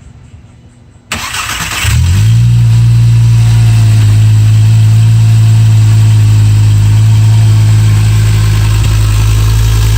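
Volkswagen Jetta's 2.5-litre inline five-cylinder, with a Magnaflow muffler, cold-started: the starter cranks for under a second, the engine catches about two seconds in, then idles loud and steady.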